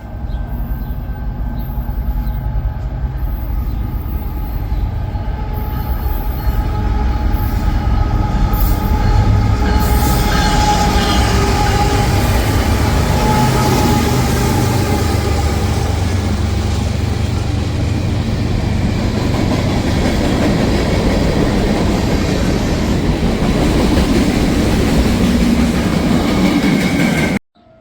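A train passing close by, a loud steady rumble with wheel-on-rail noise and a few steady tones that fade out midway. The sound cuts off suddenly near the end.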